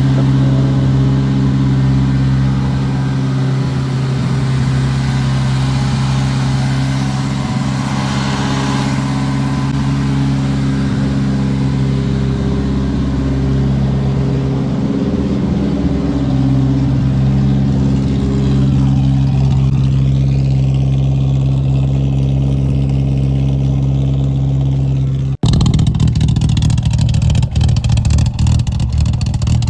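Old Volvo car engine running at a steady, unchanging pitch through its exhaust, with an abrupt cut about 25 seconds in to another steady stretch of engine sound.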